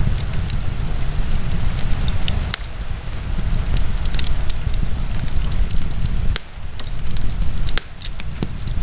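Wood fire burning in a fireplace: many short, sharp crackles and pops, irregularly spaced, over a steady low rumble.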